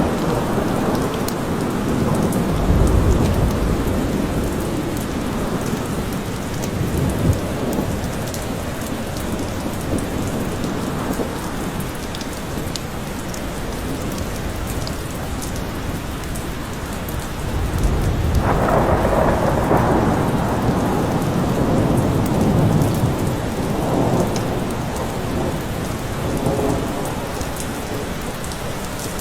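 Steady heavy rain falling, with thunder rumbling low underneath: a roll about three seconds in and a longer, louder one starting a little past the middle.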